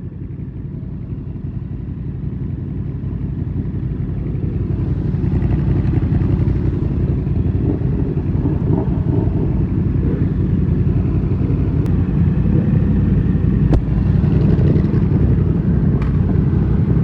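Yamaha MT-07's parallel-twin engine, fitted with an SC-Project exhaust with the dB-killer in, running while riding, getting louder over the first five or six seconds and then holding steady. A few sharp clicks come in the second half.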